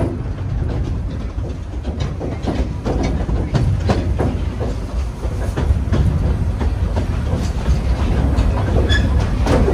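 Coal-fired steam train rolling along the track, heard from on board: a steady low rumble of the running gear with irregular clicks and clacks of the wheels over the rail joints, and a brief squeak near the end.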